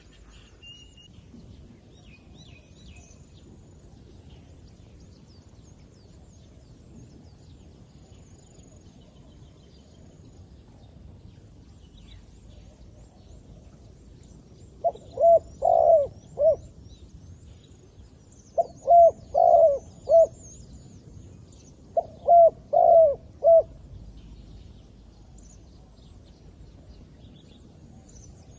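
Zebra dove cooing in three short bursts of about four quick notes each, a few seconds apart, starting about halfway in: a decoy dove calling to lure wild doves. Faint high chirping of small birds throughout.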